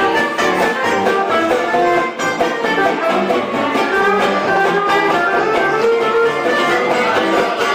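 A live band playing an instrumental number, with a steady beat and several instruments sounding together.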